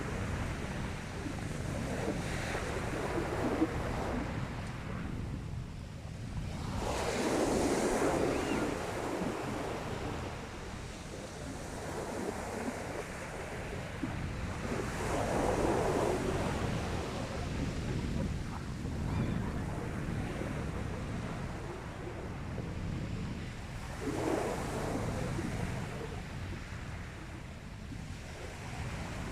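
Sea waves breaking on the shore: three waves surge in about eight seconds apart, with a steady wash of surf between them. Some wind on the microphone.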